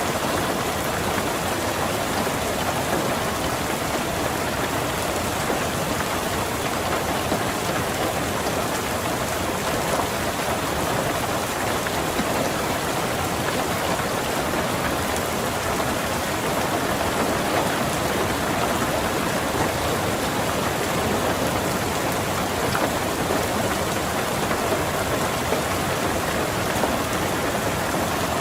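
Steady rain falling on a car, heard from inside the car: an even, unbroken patter with no single drops or thunder standing out.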